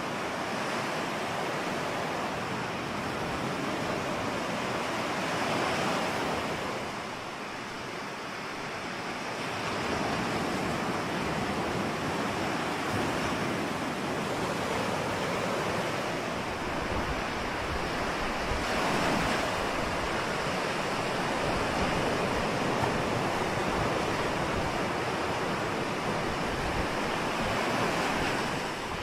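Ocean surf: waves washing in continuously, swelling and easing, with a lull about a quarter of the way through.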